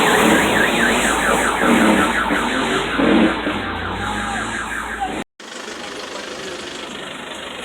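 An electronic alarm chirping rapidly and evenly over loud vehicle and street noise. A little past five seconds in the sound cuts out abruptly, then comes back quieter and steadier.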